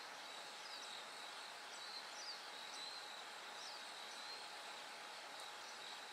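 Bell crickets singing, a steady high ringing trill over a soft outdoor hiss, with a few short high chirps scattered through the first two-thirds.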